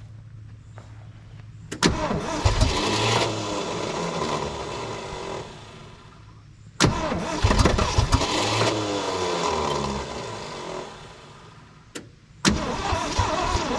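1967 Ford F100's FE big-block V8 cranked and firing on fuel poured into the carburetor bowl: three times it bursts into life, runs unevenly for a few seconds and fades out as it starves, because the only fuel is what was put in the bowl. The third start comes near the end.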